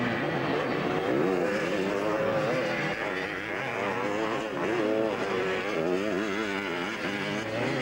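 Vintage 250cc twinshock motocross bikes racing, their engines revving up and down in pitch as they accelerate and shift.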